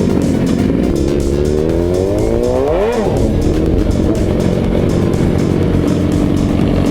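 A vehicle engine revs up steeply, peaking about three seconds in, then drops back. Background music with a steady beat plays over it.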